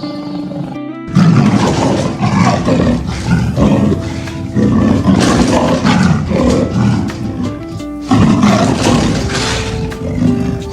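An animal roaring over background music: three long, rough roars, the first starting about a second in, the next two a few seconds apart.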